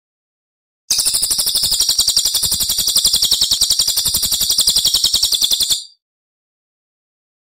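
Recorded songbird giving a rapid, high-pitched trill of fast repeated chirps, one burst of about five seconds that starts about a second in and stops suddenly, with silence either side.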